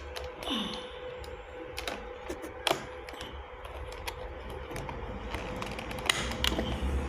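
Scattered clicks and knocks from a Mi Robot Vacuum Mop 2 Pro+ being taken apart by hand to get at its battery, over a faint steady hum.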